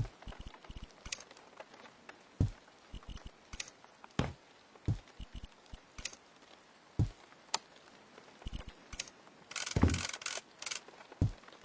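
Irregular knocks and clicks of things being handled during hand work, with a brief scraping rustle about ten seconds in.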